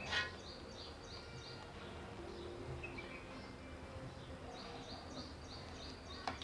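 A small bird chirping over and over, several short high chirps a second, over steady background noise. A sharp tap sounds at the very start and again near the end.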